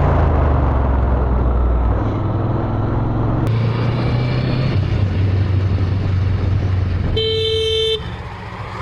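Road vehicle engines running steadily in traffic. A vehicle horn honks once, briefly, about seven seconds in.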